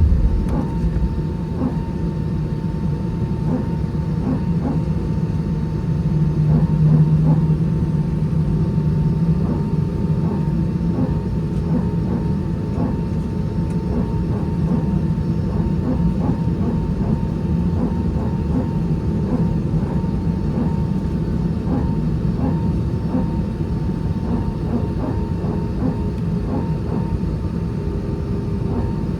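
Cabin noise inside an Airbus A320 on the ground after landing: a steady low rumble with a thin steady whine and light irregular knocks, typical of the jet taxiing. The rumble swells slightly about six seconds in.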